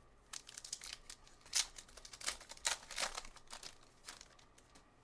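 Foil wrapper of a trading card pack being torn open and crinkled, a run of short crackly rustles that is loudest in the middle.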